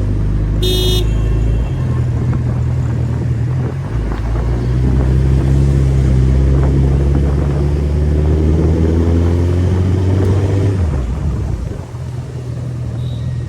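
Suzuki Hayabusa's inline-four engine running under way. From about four seconds in it pulls with a slowly rising pitch, then drops off sharply near eleven seconds. There is a short high-pitched beep just under a second in.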